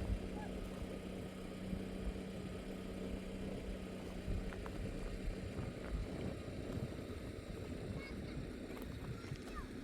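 An engine running steadily: a constant low hum at an even pitch, with a few faint ticks.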